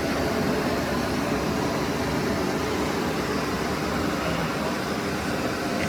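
Steady, unchanging mechanical hum with a noisy rush.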